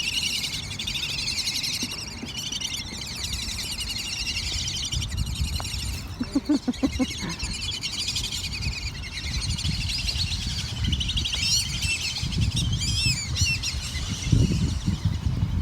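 Many small birds chirping and twittering together without a break, over a low rumble. About six seconds in comes a short, quick run of lower, pulsed calls.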